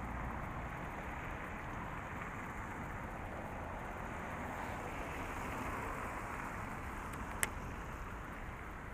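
Steady city traffic noise, with a single sharp click about seven and a half seconds in.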